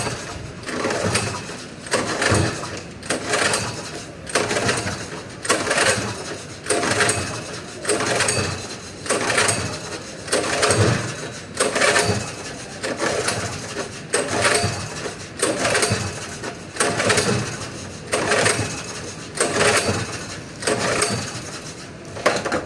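Small petrol-start generator engine being pull-started over and over, about one recoil-cord pull a second, without catching: it is cold after heavy rain and won't start.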